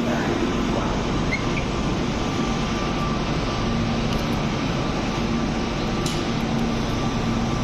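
Steady railway-station background noise: an even hiss with a constant low hum, no one close by talking.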